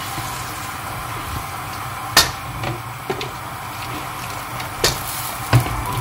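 Corn-flour-thickened Manchurian sauce bubbling in a pan on the hob, with a few sharp knocks: one loud about two seconds in and two more near the end.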